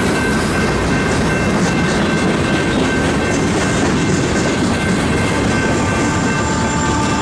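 A CSX freight train's flatcars, loaded with military trucks, rolling past close by: a loud, steady noise of steel wheels on rail.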